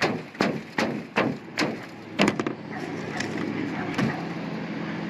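A hand tool striking a metal roof in a quick run of knocks, about two or three a second, then a double knock and one more separate knock, as an old caulked patch is worked loose.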